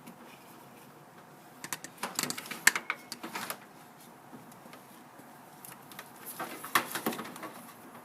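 Socket wrench on extensions clicking and clinking against metal while working the starter bolts, in two bursts: about two seconds in and again around seven seconds.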